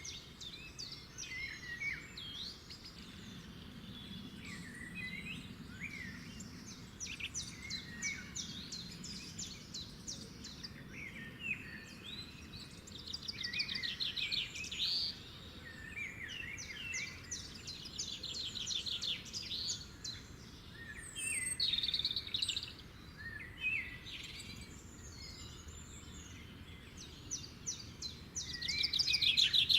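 Songbirds singing, several overlapping: short chirps and rapid trills, over a faint steady background hiss. The loudest trills come about halfway through and again near the end.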